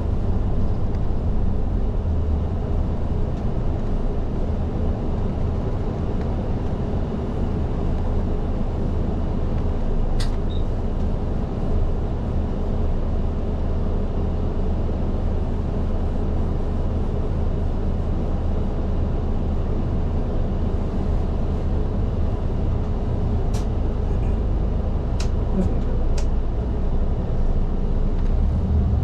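Inside the cabin of an Isuzu Erga diesel city bus underway: a steady low engine drone with road noise, and a few sharp clicks about ten seconds in and a cluster near the end.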